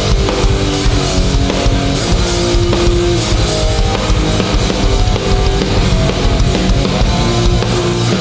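Hardcore band playing live without vocals: distorted electric guitars holding notes over a pounding drum kit and bass.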